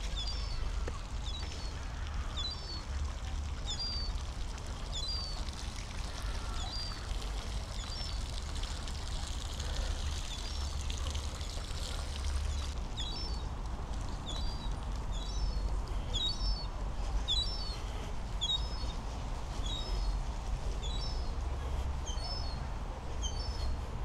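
A bird calling over and over with short, high chirps, about one or two a second. It goes quiet for several seconds in the middle, then starts calling again. A steady low rumble runs underneath.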